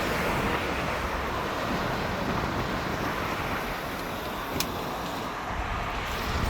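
Steady road and wind noise of a moving car, with a single sharp click about four and a half seconds in.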